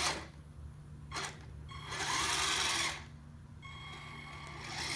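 Small electric motors of a Kyosho Blizzard radio-controlled snow tank whirring in bursts of about a second as it is driven from the app, with a steadier high whine near the end over a constant low hum.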